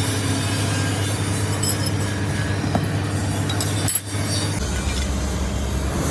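Steady mechanical running noise with a low hum. It breaks off briefly about four seconds in, then carries on with a deeper hum.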